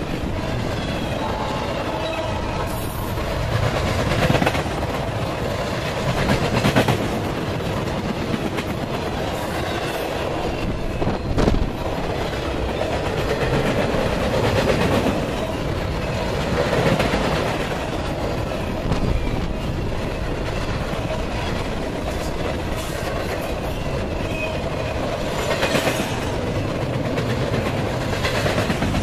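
A freight train's cars rolling steadily past, steel wheels running on the rails, with a few louder knocks every few seconds.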